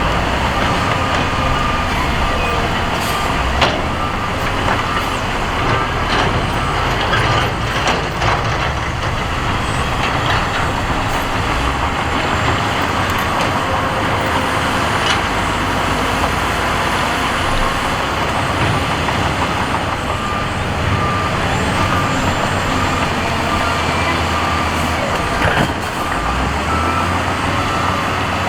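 Heavy diesel earthmoving machinery running steadily, with a reversing alarm beeping in an even repeating pattern near the start and again near the end. A few sharp knocks, the loudest about 3.5 s and 25.5 s in.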